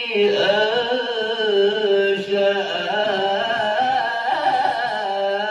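Male voice reciting the Quran in melodic tajwid style, drawing out a long note whose pitch wavers and bends in ornamental turns.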